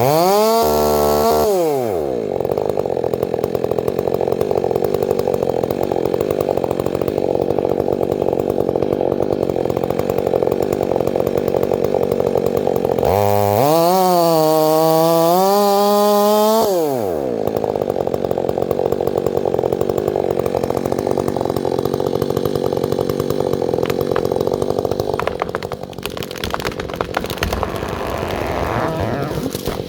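Chainsaw cutting wood under steady load. Twice, near the start and about halfway through, the engine speed swings up and down as if the chain runs free, before it settles back into the cut. The sound eases off a little near the end.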